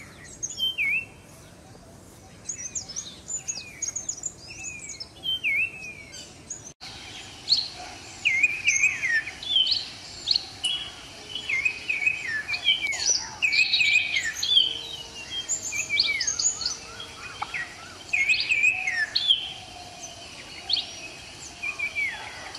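Common iora calling: repeated short whistles that drop in pitch, mixed with higher chirps. From about seven seconds in, the calls are louder and come thick and fast, overlapping one another.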